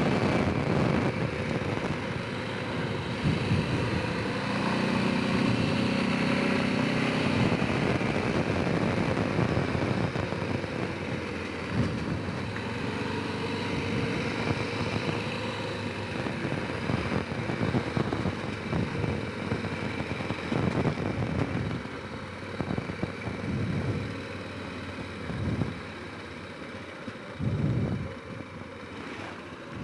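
Honda Rincon 650 ATV's single-cylinder four-stroke engine running on the move, the throttle swelling and easing; in the second half it pulls in shorter, uneven surges.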